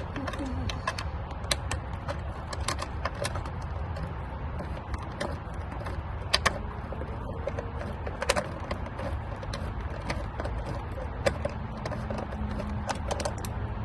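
Irregular metallic clicks and knocks of hand tools working on a bolt under the hood during a throttle body replacement, a few of them sharper, over a steady low background rumble.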